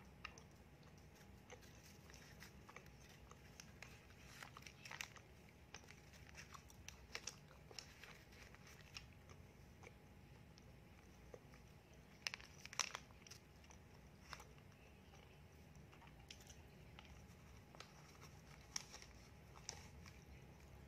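Faint close-miked eating sounds: chewing and biting of donuts, mixed with scattered crinkles and crackles of a paper donut liner being handled.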